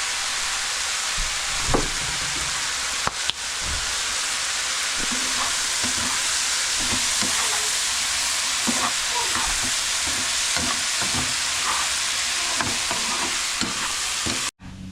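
Chicken pieces frying in oil in a pan with a steady sizzle, stirred with a utensil that knocks and scrapes against the pan now and then. The sound cuts off abruptly just before the end.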